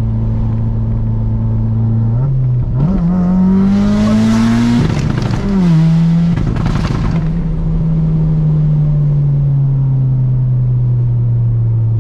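Audi TT's built 1.8T four-cylinder with a Garrett GTX3071R turbo, heard from inside the cabin: steady cruising, then a hard pull about two seconds in with the engine pitch climbing, a gear change near five seconds where the pitch drops, and a loud rushing of turbo noise over the pull and shift. It then settles back to a steady cruise with the pitch slowly falling.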